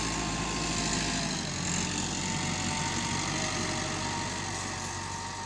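Tractor engine running steadily at low revs, gradually getting quieter over the last couple of seconds.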